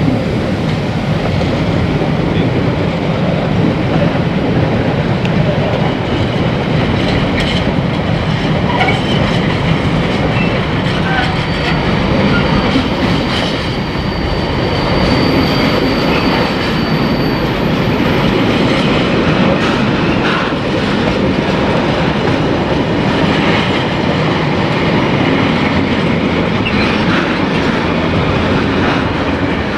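Train rolling past with its wheels clattering over the rail joints, a steady run of noise. A faint high squeal from the wheels comes in about twelve seconds in and fades out some seven seconds later.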